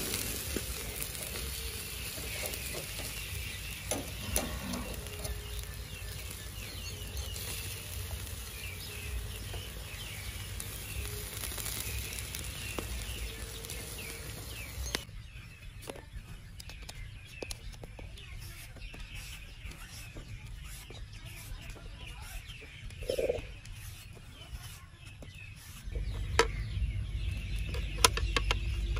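Birds calling over a steady outdoor background, with scattered small clicks. The background changes abruptly about halfway through and again near the end.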